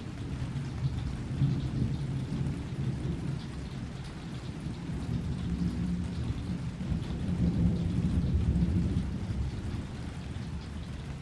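Thunder rumbling low and long, swelling about a second in and again, louder, around seven to nine seconds in, with rain falling.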